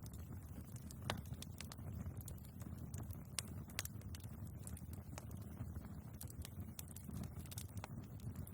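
Wood fire burning in a fireplace: irregular sharp crackles and pops from the logs over a low, steady rumble of the flames, with one louder pop about a second in.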